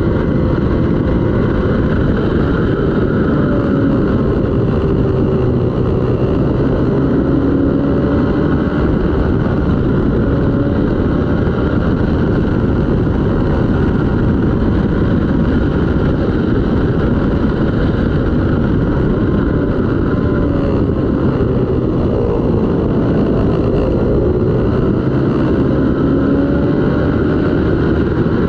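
Racing motorcycle engine running hard at high revs, continuous and loud, its pitch rising and falling as the rider accelerates, shifts and slows.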